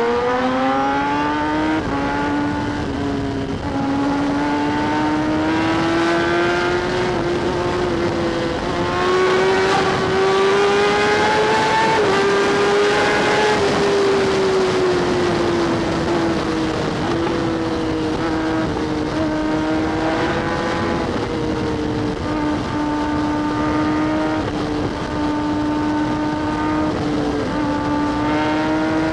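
Kawasaki ZX-10R inline-four superbike engine running at a steady cruise, heard with wind noise on a helmet-mounted mic. Its pitch climbs slowly for the first dozen seconds, then eases back down, with a few short dips and steps like gear changes.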